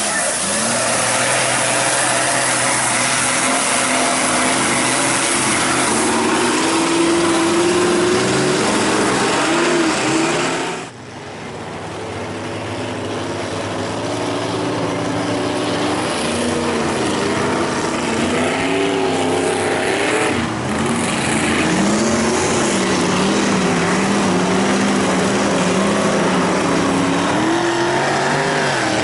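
Mud truck engine revving hard, its pitch climbing and falling again and again over a loud rushing noise. The sound drops off suddenly for a moment about eleven seconds in, then builds back up.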